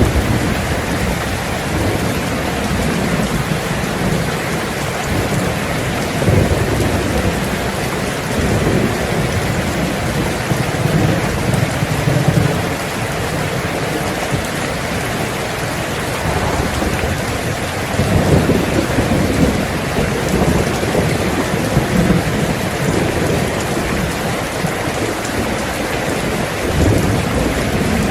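Heavy rain drumming steadily on a tin roof, with low thunder rumbling and swelling several times.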